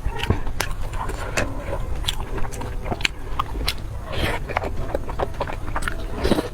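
Close-up crunchy biting and chewing of food: many irregular sharp crackles, over a steady low rumble.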